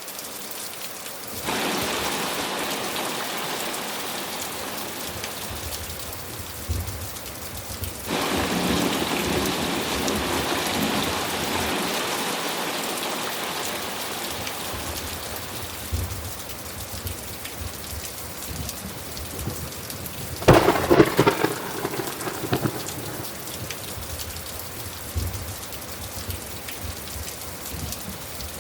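Thunderstorm: steady rain with rolling thunder. The storm noise swells suddenly twice in the first eight seconds, and a sharp, crackling thunderclap rips through about two-thirds of the way in.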